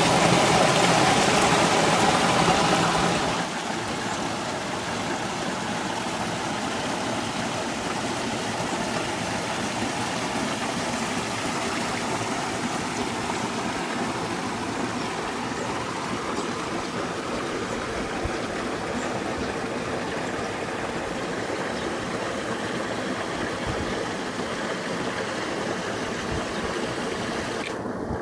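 Water running from a spring: a steady rushing noise, louder for about the first three seconds and then softer.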